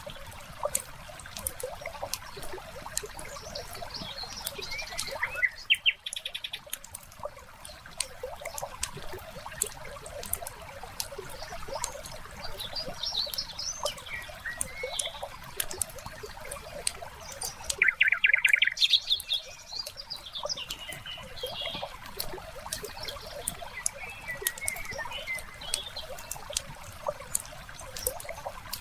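Ambience mix of a wood fire crackling with fine scattered pops, small birds chirping and singing, and water trickling. Two louder bird calls of quick repeated notes stand out, about six seconds in and again about eighteen seconds in.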